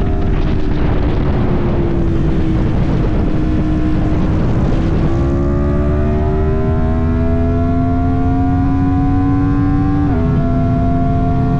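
Yamaha MT-10's crossplane inline-four engine under way with heavy wind rumble on the microphone. The engine note sinks for the first few seconds, then climbs steadily as the bike accelerates, dropping suddenly at a gear change near the end.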